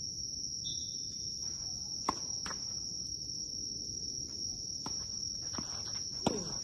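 Steady high-pitched insect chirring, with sharp tennis-ball strikes about two seconds in and again near the end, plus a couple of fainter ones between.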